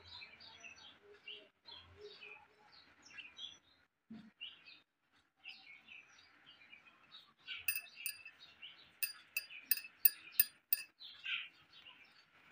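Small birds chirping in the background, with a quick run of about ten sharp clinks between about eight and eleven seconds in.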